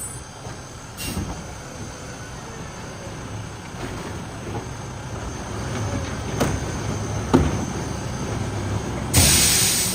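Diesel garbage truck running with a steady low rumble, a few sharp knocks, and a loud burst of hiss near the end.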